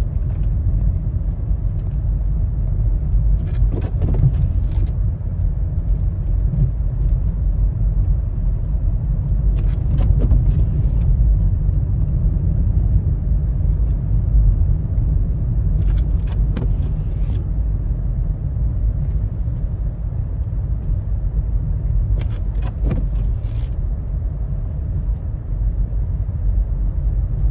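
Car cabin noise while driving on a snow-covered road: a steady low rumble from the engine and tyres. A short cluster of sharp clicks comes about every six seconds.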